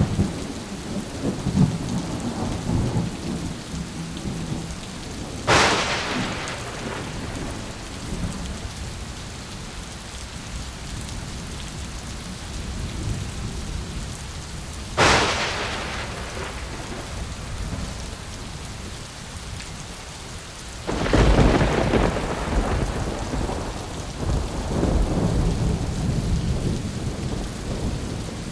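Thunderstorm: steady rain falling, with sharp thunder cracks about five and fifteen seconds in, then a longer rolling rumble of thunder from about twenty-one seconds in that swells again a few seconds later.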